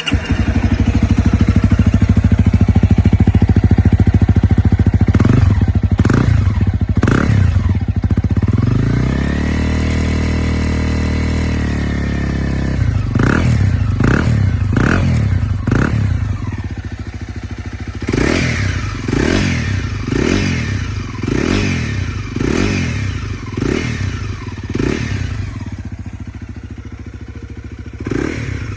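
Honda CRF250L's single-cylinder four-stroke engine heard through its muffler, idling and being revved: a few throttle blips, a rev held high for a few seconds around the middle, then a steady run of quick blips, one to two a second.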